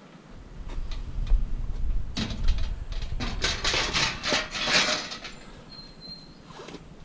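Scrap metal parts being handled: irregular clattering, knocking and scraping, loudest in the middle, over a low rumble of handling. A short high bird chirp comes near the end.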